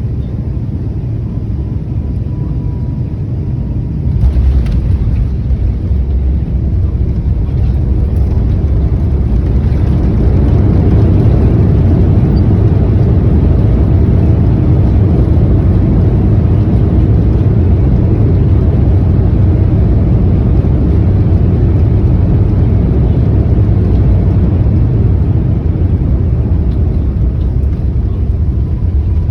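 Airliner cabin noise during landing: a loud, steady, low rumble of engines and airflow. About four seconds in there is a sudden thump and the rumble jumps in level, then builds further and stays loud.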